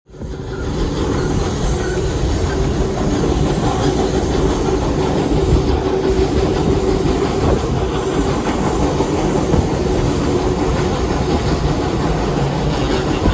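Passenger train rolling along the track: a steady rumble with the clickety-clack of the wheels over the rail joints.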